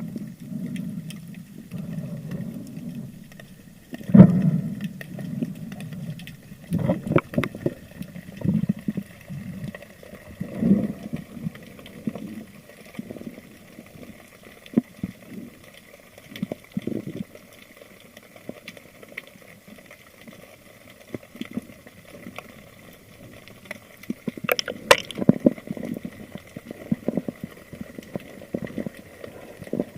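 Muffled water sloshing and gurgling, broken by irregular knocks and thumps; the sharpest knock comes about four seconds in and another cluster comes near the end. A faint steady high tone runs underneath.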